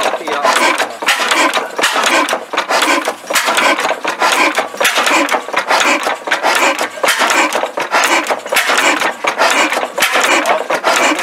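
Old engine running at a steady speed, its exhaust beating evenly in a rhythmic pattern.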